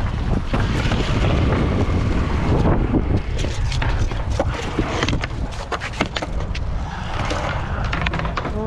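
Skateboard wheels rolling on concrete, with repeated sharp clacks and knocks of the board, and wind rumbling on the microphone.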